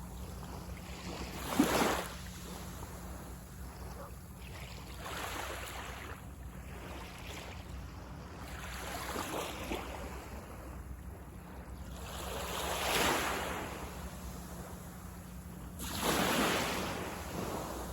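Sea waves breaking on the beach and washing up the shore, one surge every three to four seconds, the sharpest about two seconds in and strong ones near the middle and near the end, over a steady low rumble.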